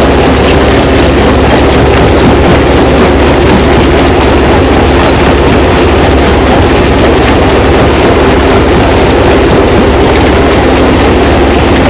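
Stone crusher running, a loud, steady mechanical din over a constant low hum.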